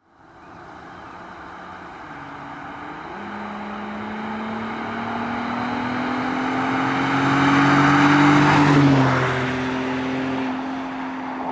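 Exhaust of a 2007 Audi A6 Quattro's 3.2 FSI V6 through Flowmaster 40 Series Delta Flow mufflers, the car accelerating. The engine note climbs steadily and is loudest about eight seconds in, then drops sharply in pitch and holds lower.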